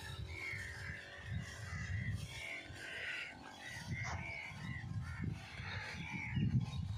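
Birds calling over and over in short chirping notes, with an uneven low rumble underneath.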